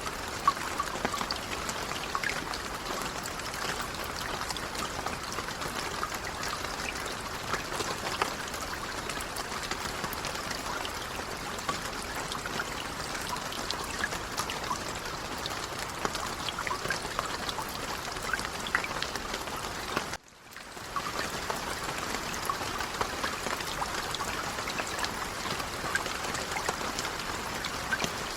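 Light rain falling steadily, a soft even hiss full of small drop patters. About twenty seconds in it cuts out for a moment and fades back in.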